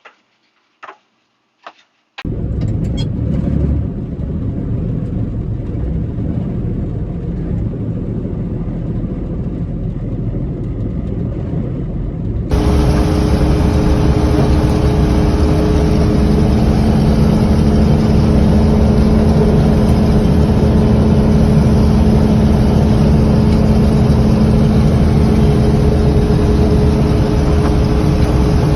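A few clicks, then an engine starts about two seconds in and runs steadily. About halfway through it gets suddenly louder, with a steady hum on top.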